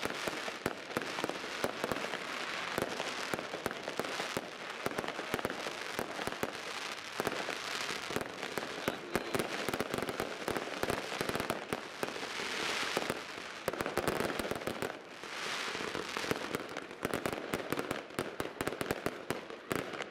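New Year's Eve fireworks and firecrackers going off all around, a continuous dense crackle of pops and bangs, with several swells of hissing crackle a second or two long.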